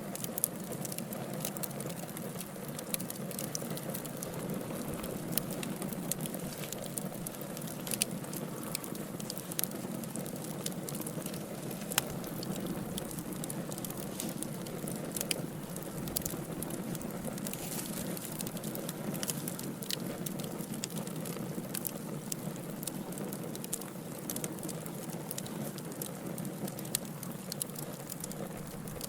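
Wood fire burning in a fireplace: a steady low rumble of flames with irregular crackles and sharp pops from the burning logs, a few pops louder than the rest.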